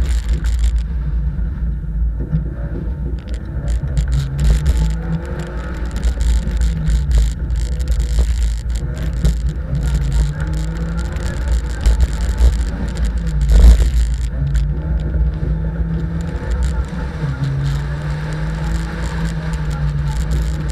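Rally car engine (a Fiat) driven hard, its revs climbing and dropping again and again through accelerations, gear changes and lifts for corners. A heavy low rumble of road and wind runs underneath. A loud thump comes about 14 seconds in.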